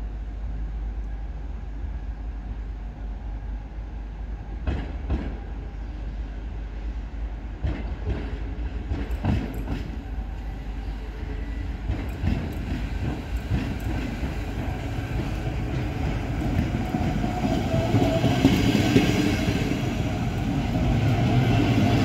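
Steam-hauled passenger train rolling slowly in over points and rail joints, its wheels clicking and clacking louder as it nears and passes close by. A high metallic squeal joins in over the last few seconds.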